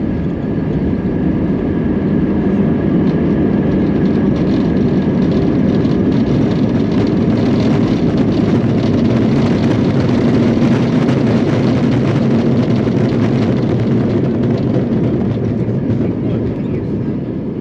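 Loud steady rush of engine and air noise inside an Airbus A320-232 cabin during the landing roll, swelling through the middle and easing a little near the end.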